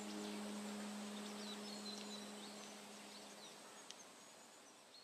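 Small birds chirping faintly with short, quick falling whistles over a woodland background, while a held low note of ambient music dies away about three seconds in; everything fades out gradually.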